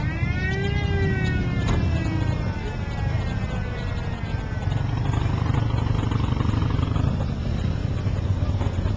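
A vehicle engine rises briefly in pitch, then winds down steadily over about four seconds, over a steady low engine rumble.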